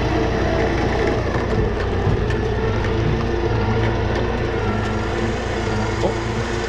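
Vehicle engine running steadily with an even, low hum.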